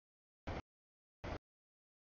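Rolling noise of a passing freight train, heard only as two brief snatches about a sixth of a second long, with dead digital silence between them: the audio feed is cutting in and out.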